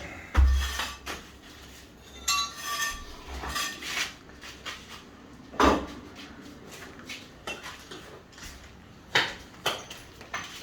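Scattered knocks and clinks of hard objects being handled. About two seconds in, one clink rings briefly with a metallic tone, and a sharp knock comes near the middle.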